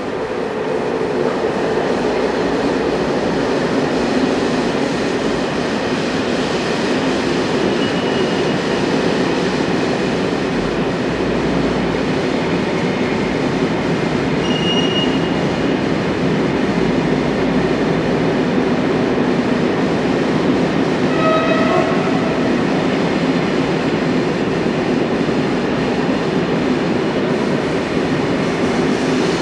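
Steady, loud rumble of a train running on the tracks, with faint brief high squeals and a short pitched tone a little past the twenty-second mark.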